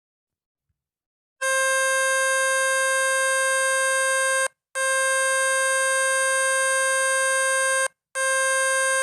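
Speaker-cleaner tone meant to shake trapped water out of a phone speaker: a loud, steady, buzzy beep with many overtones, starting about a second and a half in and cut briefly twice, so it sounds as three long beeps of about three seconds each.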